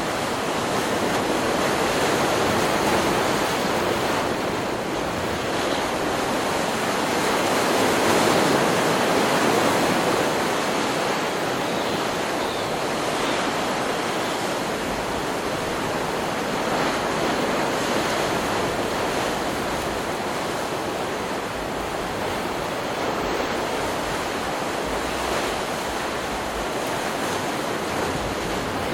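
Ocean surf: waves breaking and washing in a continuous rush, swelling loudest about eight to ten seconds in.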